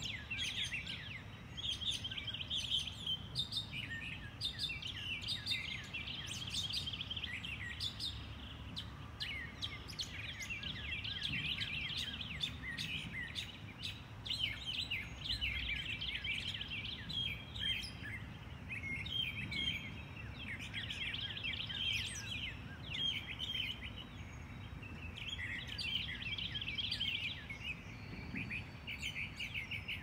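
Several songbirds chirping and trilling in quick runs of high, repeated notes, one after another throughout, over a steady low background rumble.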